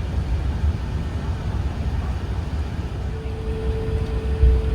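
Airbus A380 cabin noise while taxiing: a steady low rumble of the engines and rolling gear, with a steady hum setting in about three seconds in.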